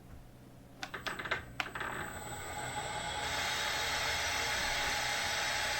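A few sharp clicks about a second in, then a Bridgeport milling machine starting up, its running noise building steadily over a couple of seconds and holding.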